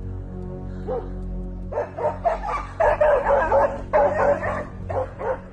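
A dog barking and yapping rapidly, starting about two seconds in, over steady background music.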